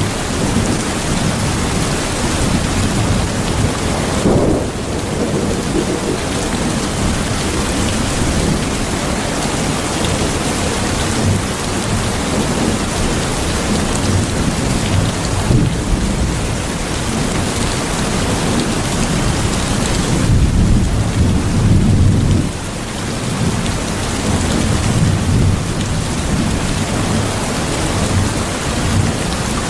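Steady heavy rain with rolling thunder. The deep rumbles swell about a fifth of the way in and again at their loudest about two-thirds through, then cut off sharply.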